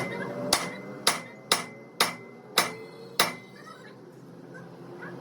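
A hammer striking metal seven times, about two blows a second, each blow ringing briefly, then stopping a little over three seconds in.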